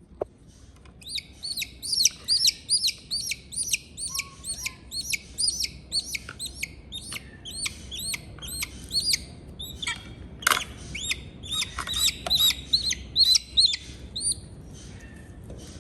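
Eaglet chirping: a long run of high, arched peeps, several a second, starting about a second in and stopping shortly before the end.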